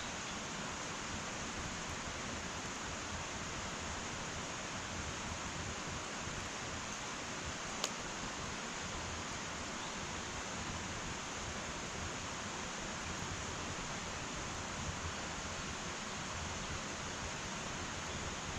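Wood fire in an irori sunken hearth burning with a steady hiss, and one sharp crackling pop about eight seconds in, with a fainter one later.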